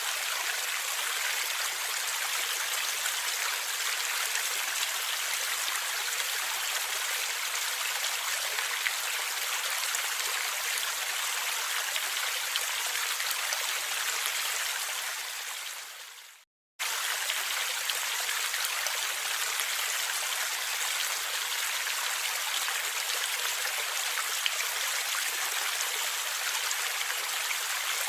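Gurgling river or stream water flowing steadily. A little past halfway the sound fades out to a brief silence, then cuts back in abruptly: a loop or edit point in the recording.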